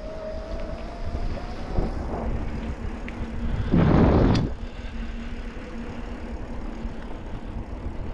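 Wind and road rumble on a bike-mounted action camera while riding a mountain bike, with a brief loud rush of noise about four seconds in.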